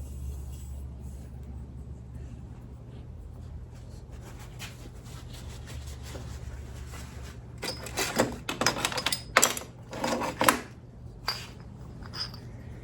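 Metal parts and tools handled on a workbench during a motorcycle fork seal job: a quick run of clinks and rattles in the second half, then two single clicks, over a steady low hum.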